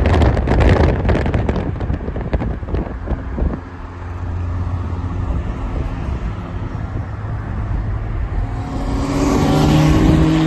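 Car engines running as classic cars drive onto a show field, with wind buffeting the microphone. Near the end one car's engine comes close and gets louder, with a steady hum.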